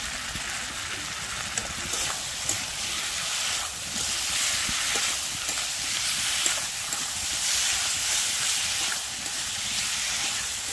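Spiced potato and tomato masala sizzling and frying in a metal kadai while a metal spatula stirs and scrapes it. This is the masala being slow-fried (koshano) before the broccoli goes in. The frying hiss grows louder a few seconds in.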